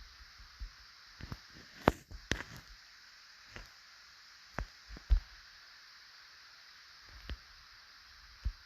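Scattered small clicks and knocks, about a dozen, the loudest around two and five seconds in, over a steady background hiss.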